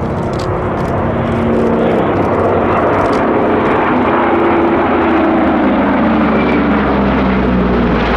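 Lockheed Super Constellation's four Curtiss-Wright R-3350 18-cylinder radial engines droning loudly in a flyby, growing louder about a second and a half in, with the engine pitch sliding down as the aircraft passes.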